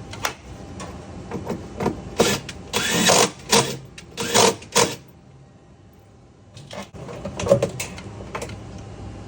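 Metal hand tools knocking and scraping at a washing machine's stuck agitator, in an irregular run of clatters from about two to five seconds in and a few more near the end.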